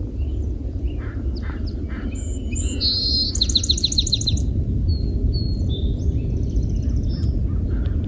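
Birds calling, with a rapid run of about nine high notes in a second near the middle, over a steady low rumble.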